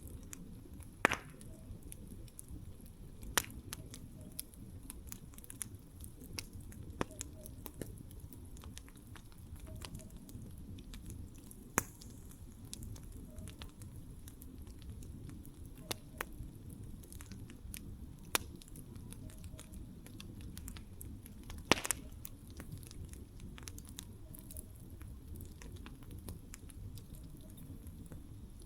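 Wood campfire burning: a steady low rumble of flames with scattered sharp pops and crackles at irregular intervals, the loudest about a second in and again about three-quarters of the way through.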